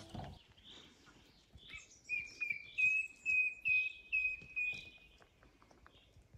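A songbird singing in the forest: a run of about ten short notes on one pitch, starting about two seconds in and lasting about two and a half seconds, with fainter higher notes above.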